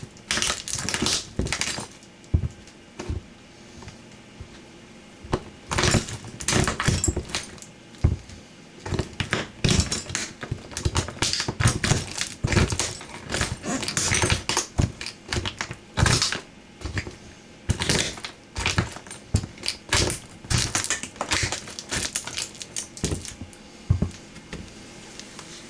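Toy truck being crushed under a boot: irregular bursts of crunching and cracking, with a quieter pause a couple of seconds in.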